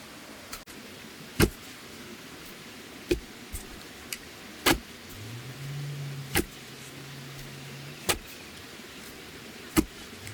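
Blade chopping bamboo: six sharp, evenly spaced strikes about every 1.7 seconds, with a low hum for a few seconds in the middle.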